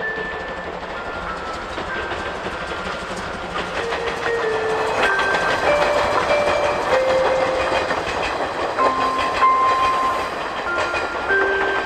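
Steam train hauled by tank locomotive C12 66 running past, with wheels clattering over rail joints, growing louder about four seconds in. A light, tinkling melody plays over it.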